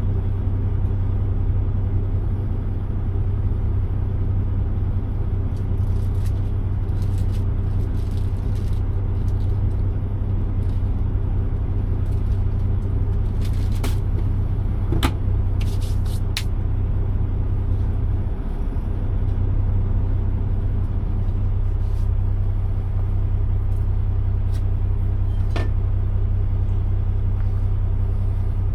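Steady low drone of an idling truck engine heard inside the cab, with scattered light clicks and knocks of things being handled.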